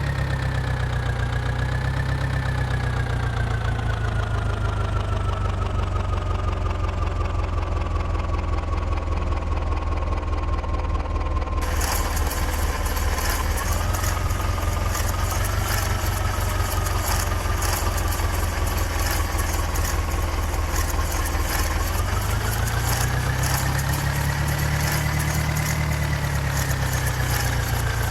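New Holland orchard tractor's diesel engine running steadily under way, its speed slowly dropping for the first dozen seconds, then rising in a swell near the end before easing off again. A dense rattling hiss joins suddenly about twelve seconds in and carries on.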